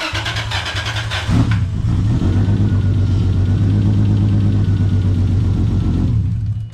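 Turbocharged Toyota JZ-series inline-six in a Lexus IS300 being cranked by the starter, catching about a second and a half in, and idling steadily before it is shut off near the end. The hydraulic lifters are not yet full of oil after the restart.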